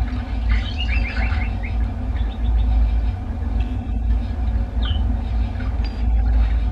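A steady low rumble, the loudest sound, with a small songbird chirping over it: a quick run of short notes about half a second in, then a few single chirps near five seconds.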